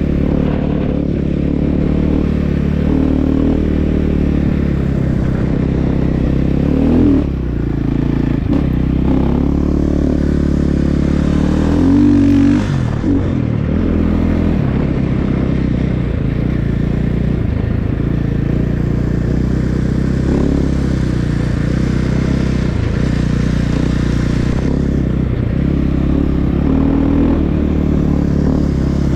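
Snow bike engine running under throttle, its pitch rising and falling as the rider revs on and off, with the strongest revs about 7 and 12 seconds in.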